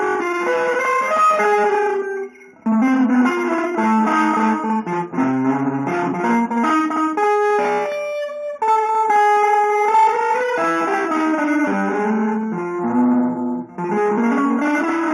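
Guitar playing busy, quick-moving melodic lines in a free-jazz, avant-garde style. The playing breaks off briefly about two and a half seconds in and again about eight seconds in.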